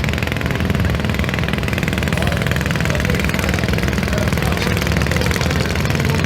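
Tractor engine running steadily and loudly during a pull run, with a low rumble and rapid even firing pulses.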